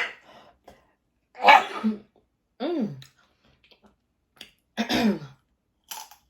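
A woman coughing and clearing her throat: a sharp burst at the start, then a few short throaty sounds with falling pitch, and small clicks near the end.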